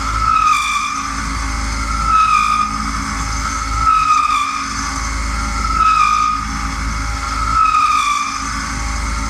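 Machine tool working metal: a steady hum under a squealing whine that swells and drops slightly in pitch about every two seconds, five times over.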